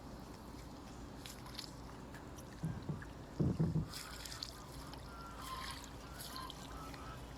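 Small boat on open water: splashing and dripping water, with two dull knocks against the boat about three seconds in.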